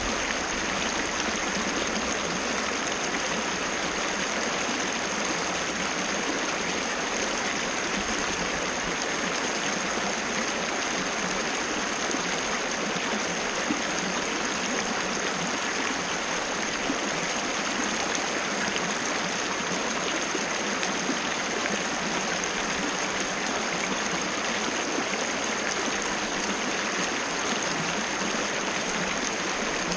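Waterfall: water falling and splashing in an even, unbroken rush. A thin, steady high tone runs under it throughout.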